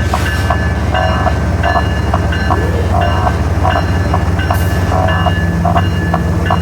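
Double-stack freight train running past with a steady low drone. Over it plays a music track of short repeating synth-like notes, with a cymbal crash at the start and again about four and a half seconds in.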